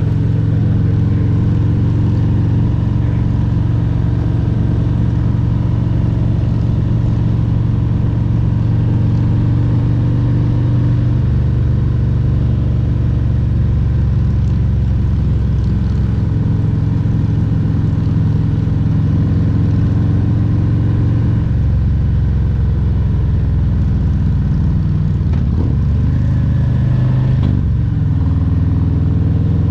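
Harley-Davidson Road Glide Special's Milwaukee-Eight 114 V-twin engine running under way. Its steady note shifts a couple of times, about a third and two thirds of the way in, then dips and rises again quickly near the end, as with throttle or gear changes.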